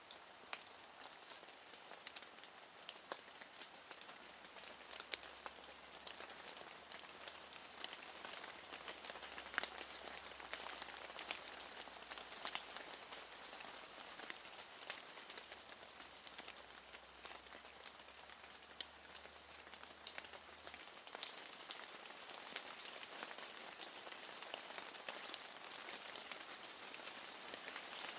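Steady rain falling, with frequent sharp ticks of single drops striking close by.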